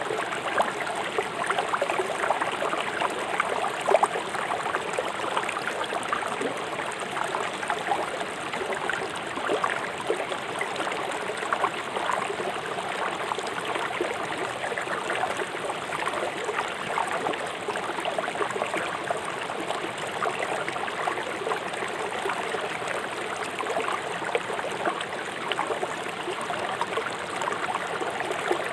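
River water flowing fast over rocks, a steady rushing with a constant patter of small splashes and gurgles.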